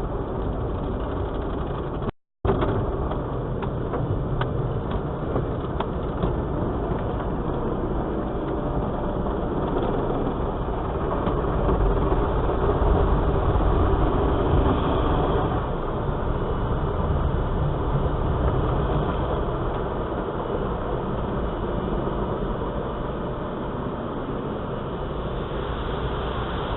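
A car's engine running steadily, a low even rumble, with the sound cutting out for a moment about two seconds in.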